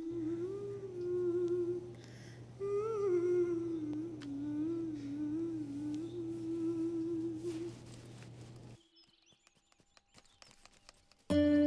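A woman humming a slow, wavering melody over a steady low drone. The humming stops about nine seconds in, and after a short silence plucked-string music begins at the very end.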